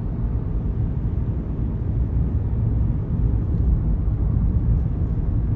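Steady low rumble of a vehicle driving: engine and tyre noise with no sudden events.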